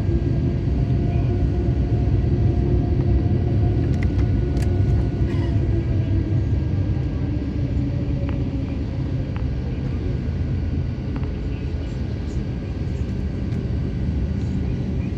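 Inside the cabin of an Airbus A350-900 under way: a steady low rumble of its Rolls-Royce Trent XWB engines and airflow, with faint engine tones that drift slightly down in pitch and a few faint ticks.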